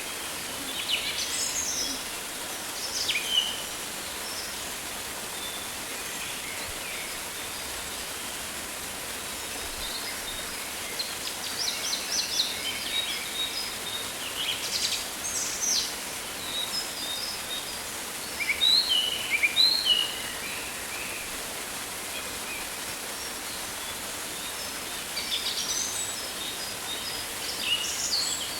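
Rainforest ambience: a steady hiss with birds calling and chirping at intervals, including a run of short falling calls about two-thirds of the way through.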